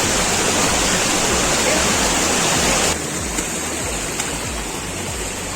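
Steady rushing of water flowing over rocks in a shallow stream, a little quieter from about halfway through.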